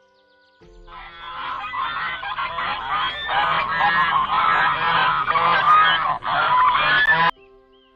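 A flock of geese honking, many calls overlapping in a dense, loud chorus that starts about half a second in and cuts off suddenly near the end.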